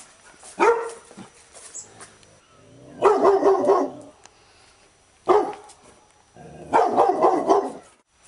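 Labrador retriever barking: a short single bark, then about two seconds later a longer, drawn-out bark. The pattern happens twice.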